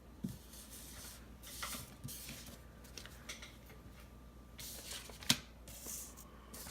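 Sticker sheets and planner pages being handled: soft paper rustling and scraping, with a sharp tap about five seconds in.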